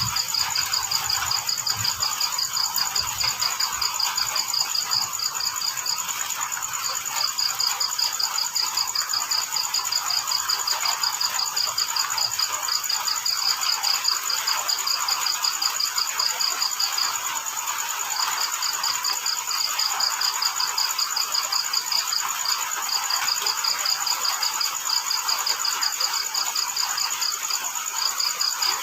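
Crickets chirping at night: fast pulsed chirps in long trains broken by short pauses, over a continuous higher-pitched insect trill and a steady hiss of rain.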